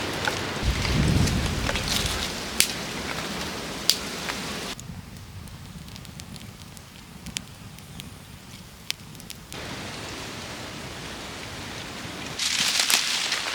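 Rain falling: a steady hiss with scattered sharp drip-like ticks and a brief low rumble about a second in. The sound drops much quieter partway through, then a loud crackling rustle starts near the end.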